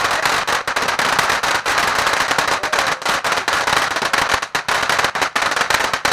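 A firework going off continuously: a dense run of rapid crackles over a steady hiss.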